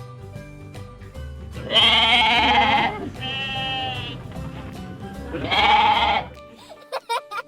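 Goat bleating three times, each a wavering call, over background music with a steady beat.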